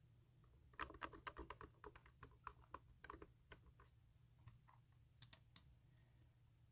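Keyboard keys being typed in a quick run of clicks starting about a second in, thinning to scattered taps with a short flurry near the end. Faint and close-miked.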